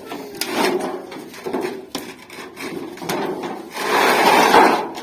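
Repeated rasping, scraping strokes on thin sheet metal, in uneven swells with the loudest near the end.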